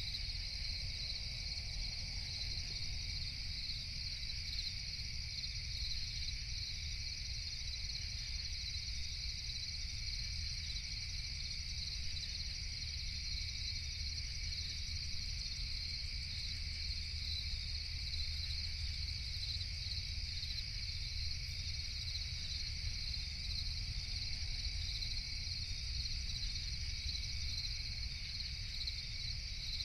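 Night chorus of crickets: a steady, high, shimmering chirring that never lets up, over a low rumble.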